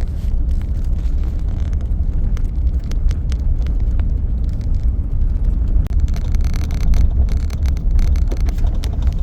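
Road noise from a moving car on an unpaved prairie road: a steady low rumble from the tyres, with frequent small clicks and rattles.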